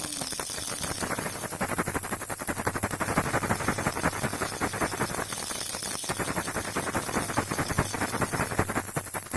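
Baby rattle shaken continuously: the beads inside make a dense, rapid, irregular clicking, with a steady low hum underneath.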